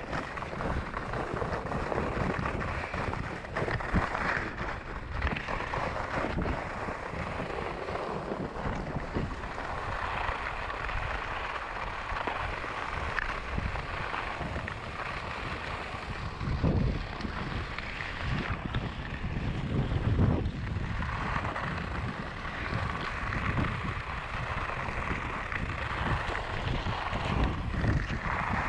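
Wind rushing over a helmet-mounted GoPro Hero7's microphone while skis scrape and hiss over firm spring snow, the scraping swelling and easing with the turns.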